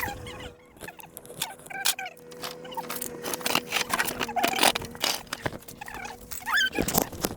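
Irregular metallic clicks and clinks of hand tools working on a truck's gearbox, over a steady mechanical hum.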